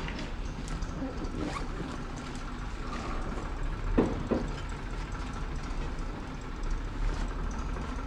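Steady low background rumble and hum, with two sharp knocks about a third of a second apart, about four seconds in.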